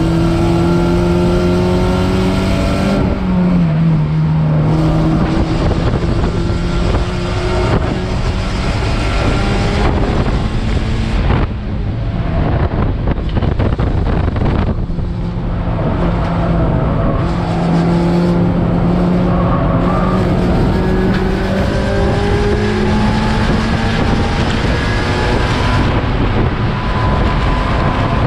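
Race car engine running hard under broad road and wind noise. Its note drops once a few seconds in, fades under the noise for a few seconds midway, then climbs slowly as the car accelerates.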